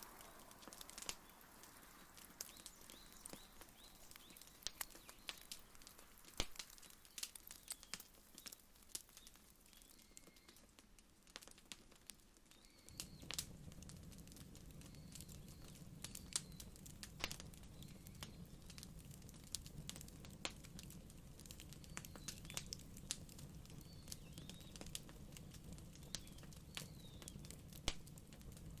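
Wood fire crackling, with sharp pops scattered irregularly throughout; about 13 seconds in a low steady rumble joins it.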